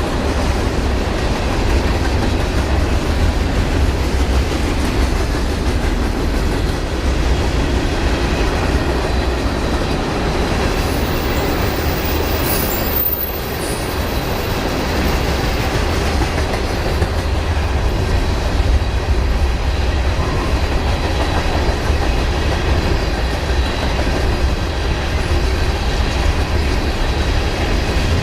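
A long train's cars rolling past at track side, a steady, loud rush of wheel-on-rail noise that runs on without a break.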